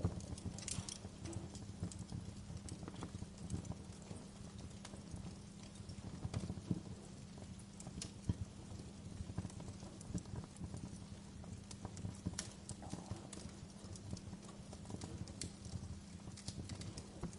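Wood fire crackling in a fireplace: irregular sharp pops and snaps of varying loudness over a low, steady rumble of the flames.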